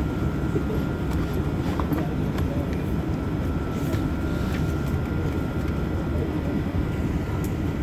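Airbus A380 jet engine noise: a steady low rumble with a thin steady whine above it.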